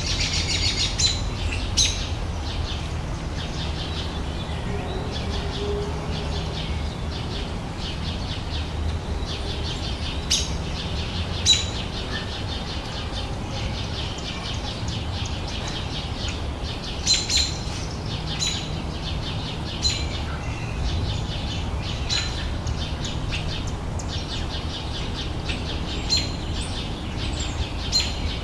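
Summer outdoor ambience: songbirds chirping on and off, in scattered short calls, over a steady low background rumble.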